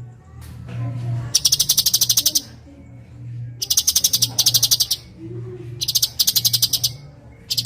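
Cucak cungkok bird singing: four fast, chattering high trills of about a second each, separated by short gaps. A steady low hum runs underneath.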